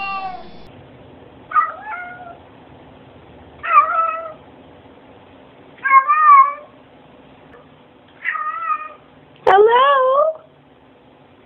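Domestic cat meowing: a series of short meows, each rising and falling in pitch, about every two seconds. The last one, near the end, is the loudest, just after a sharp click.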